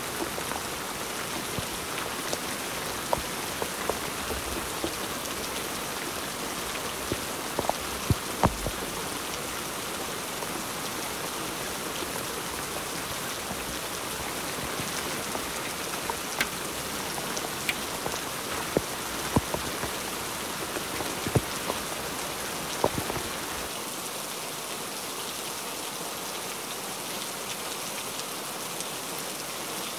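Heavy rain falling steadily on a wet nylon truck tent and pickup, with scattered sharp taps through it.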